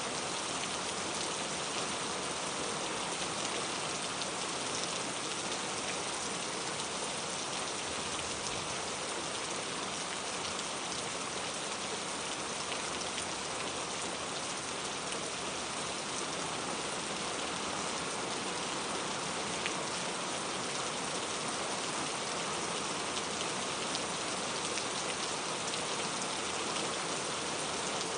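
Steady, even rain falling on a surface, a constant hiss with faint scattered drop ticks.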